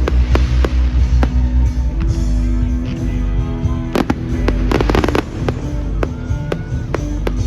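Fireworks bursting and crackling in quick, irregular bangs, with a thick cluster of cracks about four to five seconds in, over loud music.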